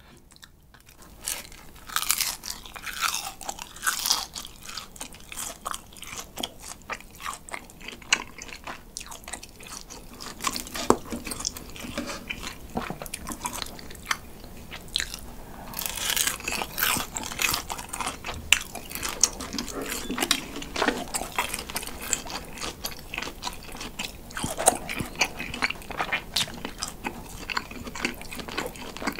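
Close-miked chewing of pan-grilled cheese: the crisp crust crunches and the chewy cheese squeaks as it rubs against the teeth. There are dense runs of crunchy bites a couple of seconds in and again from about sixteen seconds in.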